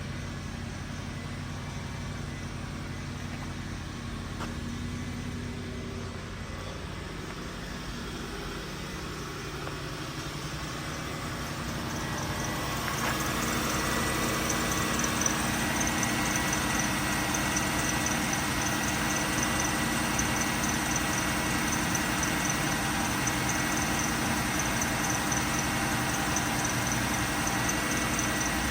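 2005 Lexus LS430's 4.3-litre V8 idling steadily shortly after a cold start. It grows louder and brighter about twelve seconds in, with a fast-pulsing high whir added.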